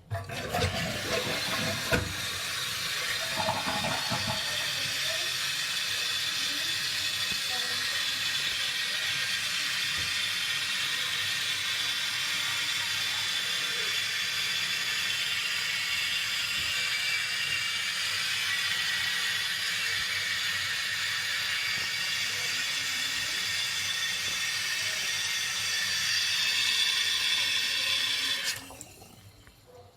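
A 2014 Western Pottery Aris toilet flushing: a rush of water draining from the tank in the first few seconds, then the fill valve hissing steadily as the tank refills. The hiss stops sharply near the end when the valve shuts off.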